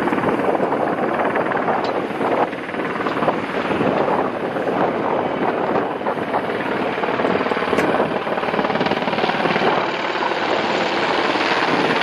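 Helicopter flying close by: a loud, steady rushing noise of engine and rotors.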